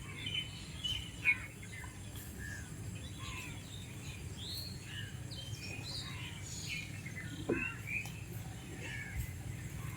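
Many small birds chirping in short, scattered calls, over a low steady rumble.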